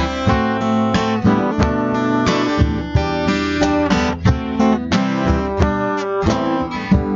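Acoustic guitar playing an instrumental break in a sertanejo moda, strummed chords mixed with picked single notes.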